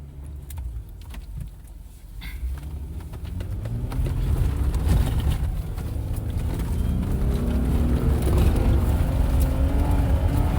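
Off-road vehicle's engine pulling under load on a rough trail, heard from inside the cabin, growing louder from about two seconds in, with scattered knocks and rattles.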